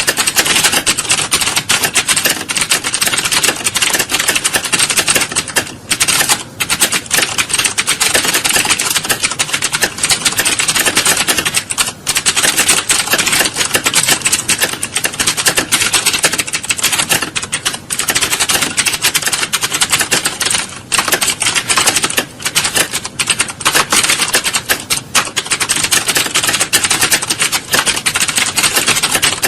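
Fast, continuous typing on computer keyboards: a dense clatter of keystrokes with only a few brief pauses.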